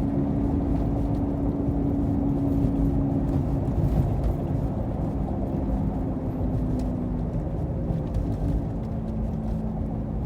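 Inside the cabin of a 2018 Nissan Versa at about 40 mph: steady road and tyre noise with a little low humming from the right rear, the kind of hum a worn rear wheel bearing makes. The hum weakens somewhat in the second half.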